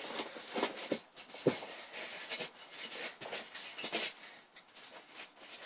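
Rubber inner tube and tyre being pulled and tugged by hand inside a wheelbarrow wheel rim: irregular scrapes and knocks, with a few short squeaks.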